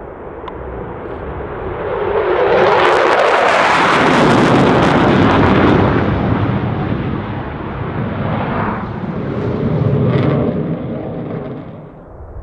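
Jet aircraft flying past at an airshow: loud engine noise builds, peaks for a few seconds, eases, swells briefly again, then fades away shortly before the end.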